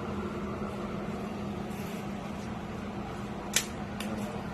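A steady low mechanical hum with one sharp click about three and a half seconds in and a fainter click just after.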